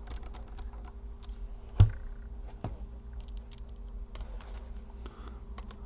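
Small irregular clicks and taps of a screwdriver driving screws into a laptop's hinge area, with a sharper knock a little under two seconds in and another just under three. A steady low hum runs underneath.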